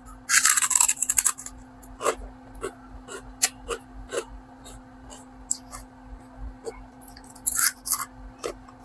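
Chicharon (crisp fried pork rinds) being bitten and chewed close to the microphone: a loud crackling crunch at the first bite, then irregular crisp crackles of chewing, with a louder run of crunches near the end.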